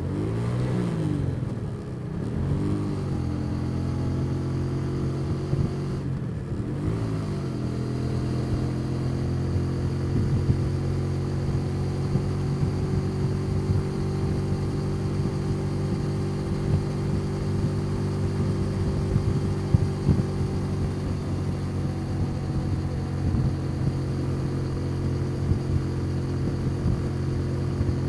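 Motorcycle engine heard from the rider's seat on the move: the revs swing up and down a few times in the first seven seconds, then it runs at a steady pitch.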